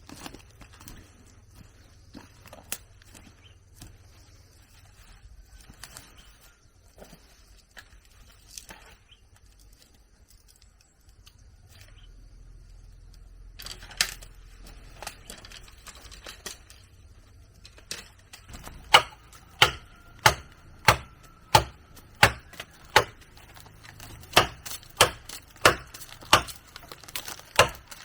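Sharp chopping strikes with a hand tool, a steady run of about two a second that begins about two-thirds of the way in, after scattered lighter knocks and taps.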